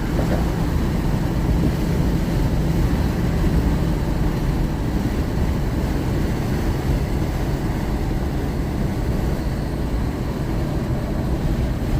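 Steady road and engine noise of a vehicle driving along, heard from inside the cabin.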